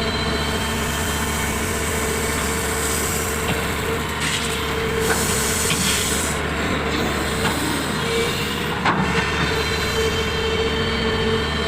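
Heavy excavator engine running steadily with a low hum. A rushing, scraping noise rises from about four seconds in and lasts a couple of seconds, and a sharp clack comes near the end.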